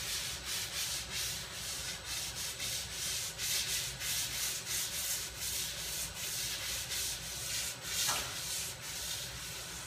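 240-grit sanding disc on a Radius360 foam pad, pushed by hand over a polyurethane-coated oak table top in quick back-and-forth strokes, a few a second: scuff sanding the cured finish between coats.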